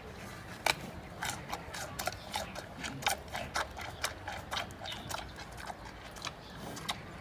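Giant panda chewing bamboo: an irregular run of sharp cracks and crunches, several a second, as the stalks split between its teeth.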